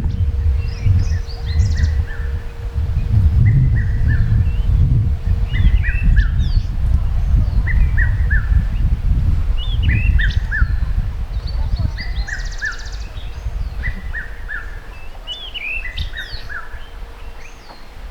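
A songbird repeating a short phrase of three or four quick downslurred whistles about every two seconds, with other higher chirps around it. Underneath, a louder low rumble on the microphone that dies down toward the end.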